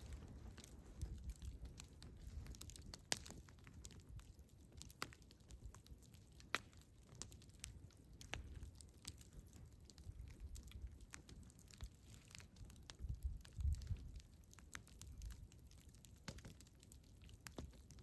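Campfire crackling: irregular sharp pops and snaps over a soft low rumble of flames, with a cluster of louder pops about three-quarters of the way through.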